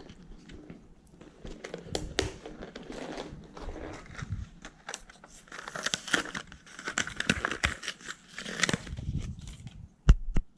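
Plastic lure packaging being handled and torn open: irregular crinkling and crackling of stiff plastic with sharp clicks, and a single knock near the end.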